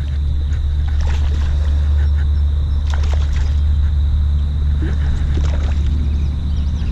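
Water splashing and sloshing a few times, about one, three and five seconds in, as a hooked largemouth bass thrashes at the surface beside the kayak. A steady low rumble runs underneath.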